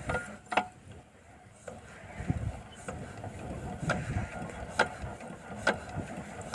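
Sharp metallic clicks, irregular at first, then settling into an even pace of a little more than one a second, while the diesel water-pump engine is not yet running. The slow, regular clicking fits a single-cylinder diesel engine being turned over by hand to start it.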